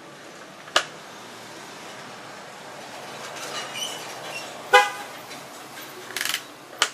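A short horn beep about two-thirds of the way through, with sharp clicks and knocks of tool work before and after it.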